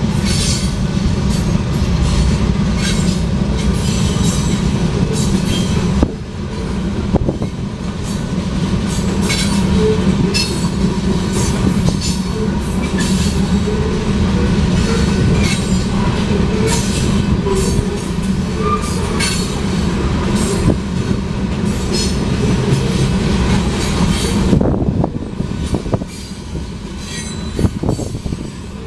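Freight train of covered hopper cars rolling past at close range: a steady heavy rumble of steel wheels on rail, with repeated clicks over the rail joints and short bursts of wheel squeal. The sound dips briefly about six seconds in and eases a little near the end.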